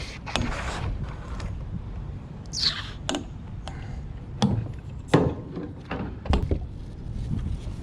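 Irregular wooden-sounding knocks and clunks on a kayak, typical of the paddle or gear hitting the hull, about six over several seconds, over a low wind rumble on the microphone.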